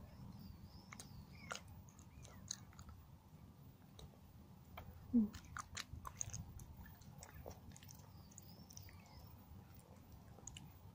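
Faint chewing and biting of pieces of a chocolate Easter egg shell, with scattered small clicks and one brief louder sound about five seconds in.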